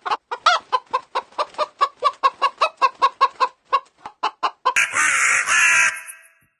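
Chicken clucking rapidly, about five short clucks a second, followed near the end by a harsher, noisier call lasting about a second.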